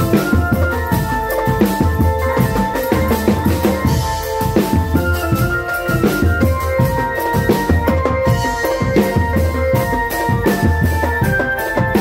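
Drum band music: fast, busy drumming with bass drum and snare, and a melody of held notes played over it.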